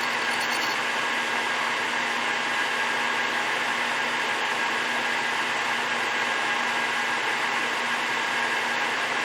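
Takisawa TSL550 engine lathe running steadily during rough turning of a workpiece's outer diameter: an even, unchanging whirr with a steady low hum.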